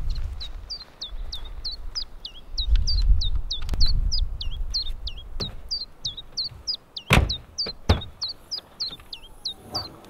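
A small bird calling over and over in short, falling chirps, about three a second. Two sharp thunks come about seven and eight seconds in, and a low rumble swells around three to four seconds in.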